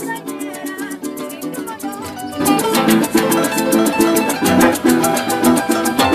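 Instrumental joropo played by a llanero ensemble: harp and plucked strings over the steady, fast shake of maracas. The band comes in fuller and louder about two and a half seconds in.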